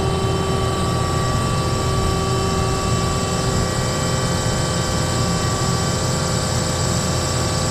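An engine running steadily at a constant speed: a low rumble with a steady whine over it that does not change.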